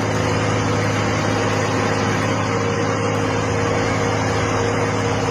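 Heavy engine running steadily: a constant low hum with a higher steady tone over it.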